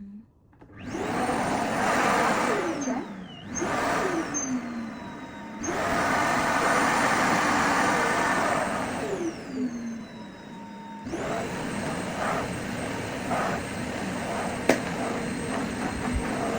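Vacuum cleaner motor starting with a rising high whine over a rush of air, then running. Its whine falls away and rises again about three times as the motor winds down and spins back up. There is a single sharp click near the end.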